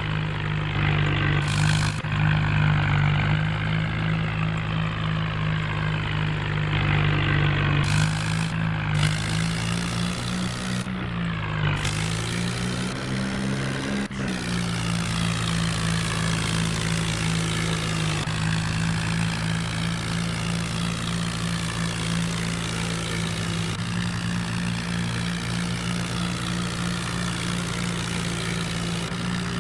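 An engine running steadily with a low, even hum; its pitch dips and rises briefly about ten to fourteen seconds in, then settles back.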